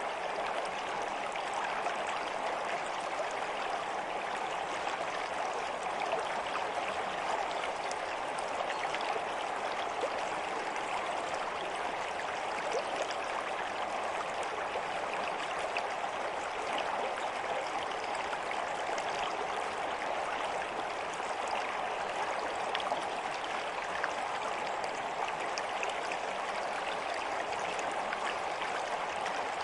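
Stream water running steadily: an even rushing, babbling flow with fine splashes throughout.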